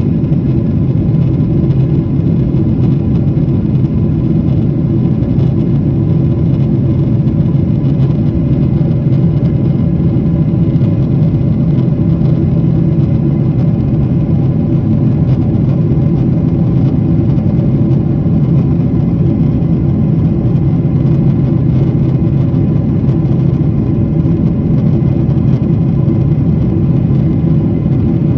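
Airliner cabin noise in flight: a loud, steady drone of engines and rushing air, low and even, with no change in level.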